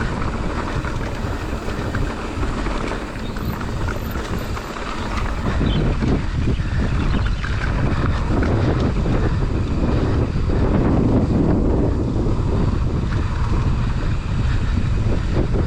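Wind buffeting the camera microphone over the sound of a mountain bike rolling down a trail, its tyres and frame rattling over the ground; it grows louder about a third of the way in, as the bike picks up speed.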